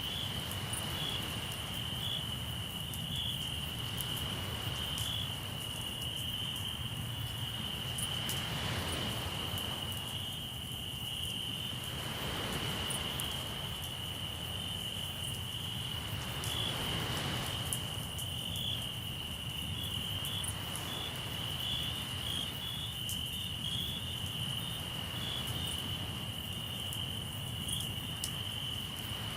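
Crickets chirping steadily in a continuous high-pitched chorus, with waves washing in every few seconds and small pops and crackles from a campfire.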